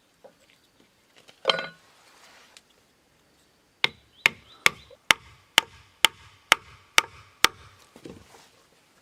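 A hand tool striking wood nine times in an even run, about two blows a second, starting a little before the halfway point. A single rustle comes shortly before the blows.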